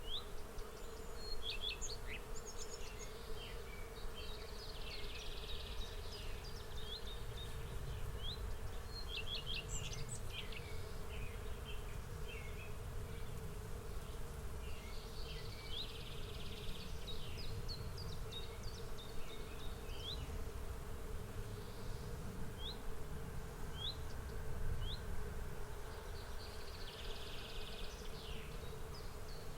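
Insects buzzing in a steady hum, with many short high bird chirps over it. A buzzy high trill comes and goes for a few seconds at a time, roughly every ten seconds.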